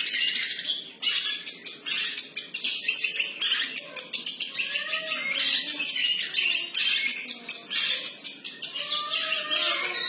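Long-tailed shrike (cendet) singing a continuous, rapid and varied freestyle song of quick twittering notes with harsher chattering phrases mixed in.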